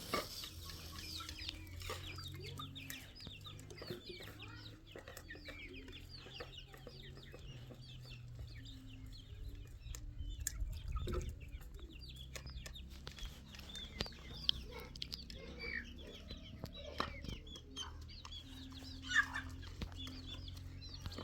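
Chickens clucking on and off, with many short calls, over a steady low hum.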